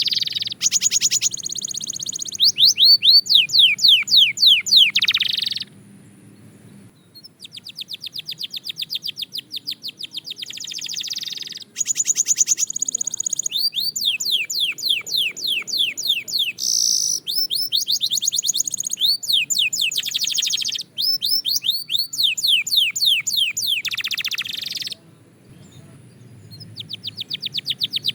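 Belgian canary singing long phrases of fast trilled notes, each tour a rapid run of repeated sweeping notes, with brief pauses about six seconds in and near the end.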